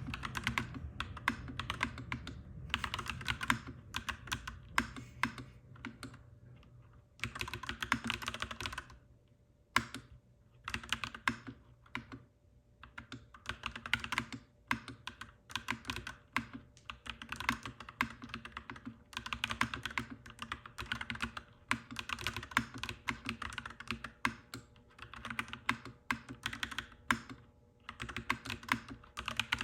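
Mechanical keyboard being typed on: quick runs of clacky keystrokes broken by a few short pauses, over a low steady hum.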